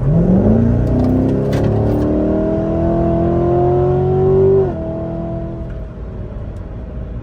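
Corvette Grand Sport's V8 engine under hard acceleration, its note climbing steadily in pitch, then dropping abruptly about four and a half seconds in as the revs fall, settling to a lower steady hum.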